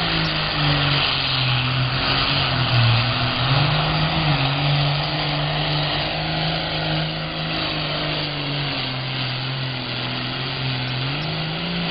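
Super farm class John Deere pulling tractor's diesel engine running hard under load while pulling the sled, its pitch holding fairly steady with small rises and dips.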